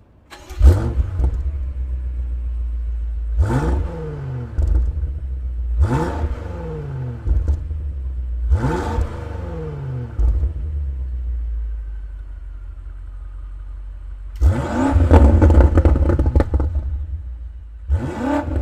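BMW M8 Competition's twin-turbo V8 exhaust, firing up with a sudden loud flare and settling to a steady idle, then revved in short blips about three times with the pitch falling back each time. After a steadier stretch it is revved longer and harder, with a last quick blip near the end.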